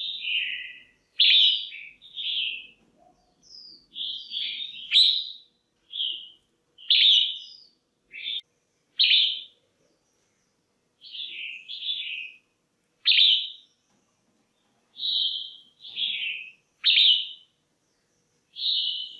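Red-whiskered bulbul, said to be a female, giving short bright chirping calls over and over, about one a second, with a short pause about halfway through. This is a call that keepers play to rouse male bulbuls or to pair birds.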